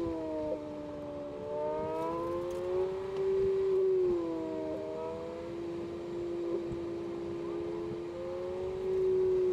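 Honda B18C (Integra Type-R) four-cylinder engine in a 1992 Civic EG6, heard from inside the cabin while driving on track. Its pitch dips, rises for about two seconds, drops sharply about four seconds in, then holds steady.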